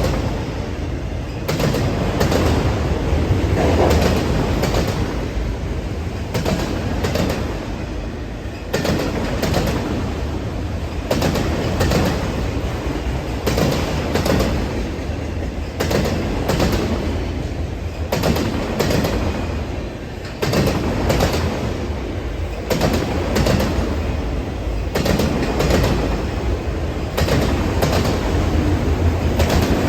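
Norfolk Southern freight train's cars rolling past: a steady low rumble with irregular clacks and knocks as the wheels cross rail joints.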